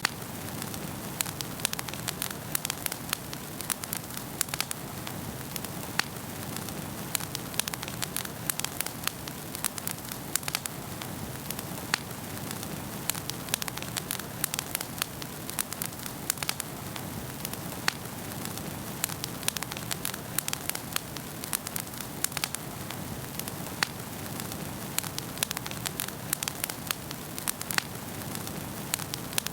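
Wood fire burning in a fireplace: frequent sharp, irregular crackles and pops over a steady low rush of flames.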